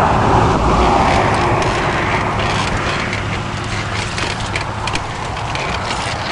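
Steady rushing noise of a bicycle being ridden along a field path, with many small clicks and rattles.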